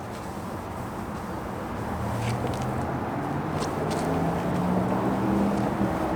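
A motor vehicle's engine running nearby, growing louder from about two seconds in as it approaches.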